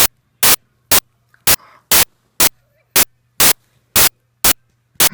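Short, loud bursts of static-like noise repeating evenly, about two a second, over a faint low hum.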